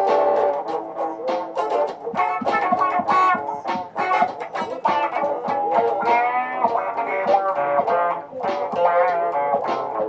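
Electric guitar music built from layered live loops through effects: quick plucked notes over a repeating bed, with notes bending in pitch about six seconds in and again near the end.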